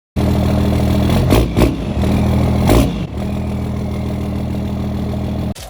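Truck engine idling, blipped sharply three times in the first three seconds, then settling back to a steady idle before cutting off abruptly near the end.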